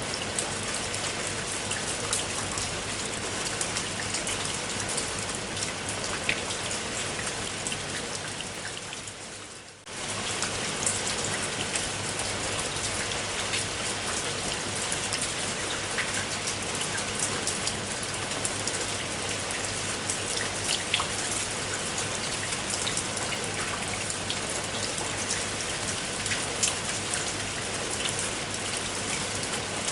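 Steady rain, an even hiss with single drops ticking through it. It fades down briefly just before ten seconds in, then comes straight back.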